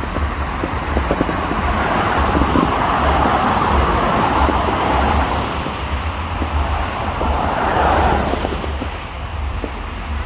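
Road traffic noise, with vehicles passing twice, rising and fading about two seconds in and again near eight seconds, over a steady low rumble.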